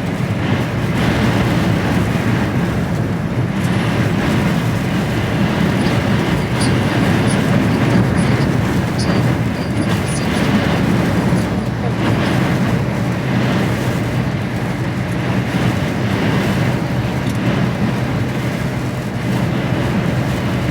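HGV lorry's diesel engine droning steadily at cruising speed, under a constant rush of road and wind noise, with a few faint ticks midway.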